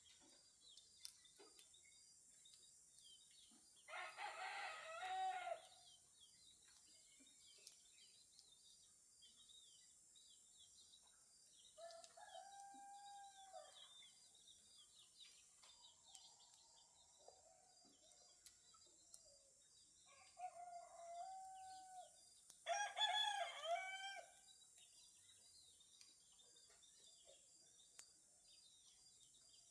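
Roosters crowing at dawn, four crows of a second or two each, spaced apart: a loud one about four seconds in, two fainter ones later, and another loud one near the end. Faint small-bird chirps and a steady high-pitched hiss run underneath.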